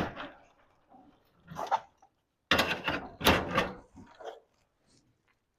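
Garage door hardware clanking and rattling as it is handled, in a few short bursts, with a louder run of metallic knocks about two and a half to four seconds in.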